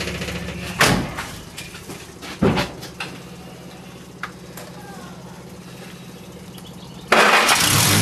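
Singer Gazelle's newly built engine being cranked for its first start: the cranking stops about a second in, two loud clunks follow, then a quiet steady hum, and loud cranking starts again about seven seconds in as the engine tries to catch.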